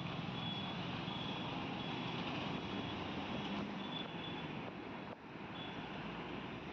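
Steady outdoor traffic noise, with a thin high tone coming and going in short, irregular dashes.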